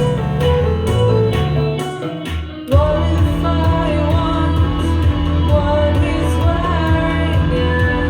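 Live band music with guitars, bass and drums; about two and a half seconds in, the band drops out briefly, then comes crashing back in with a voice sliding up into a held sung note.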